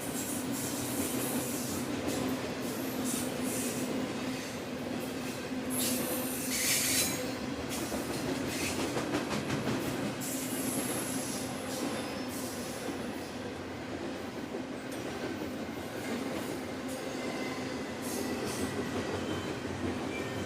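A train rolling along the rails with wheel squeal, strongest about six to seven seconds in.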